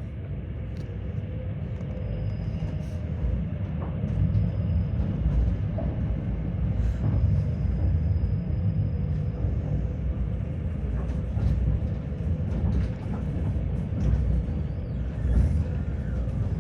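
Tram running along its rails, heard from inside the car: a steady low rumble that grows louder over the first few seconds, with a faint steady whine and occasional short clicks.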